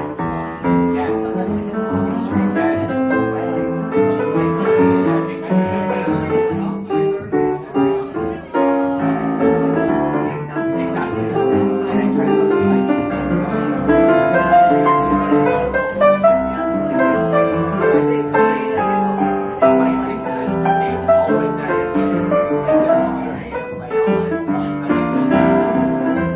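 Jazz piano played live, a continuous run of chords and melody notes.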